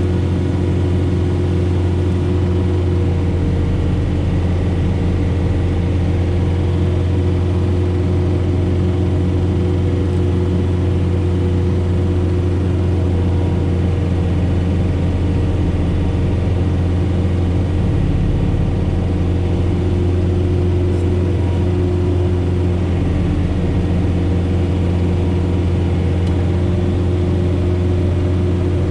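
John Deere 4066R tractor's diesel engine running steadily under load, driving a Frontier SB1174 snow blower through heavy wet snow; a loud, even drone with a deep hum.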